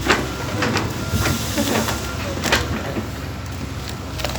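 Backhoe's diesel engine running steadily, with several sharp knocks, the loudest just after the start and about two and a half seconds in.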